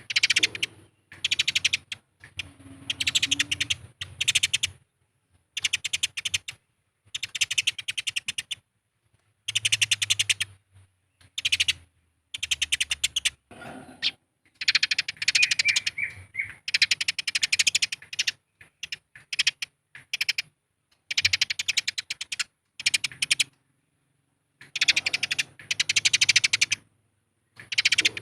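Eurasian tree sparrows giving fast, dry, chattering chirps in short bursts, the agitated calls of sparrows fighting. The bursts come one after another, each up to a second or so long, with brief silent gaps between.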